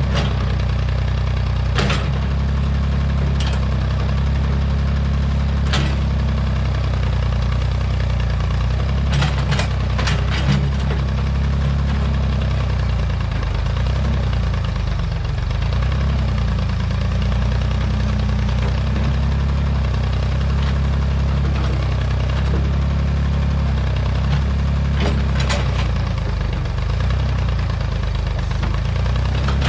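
Old Massey Ferguson backhoe's engine running steadily under the operator, with a few sharp clacks from the machine now and then.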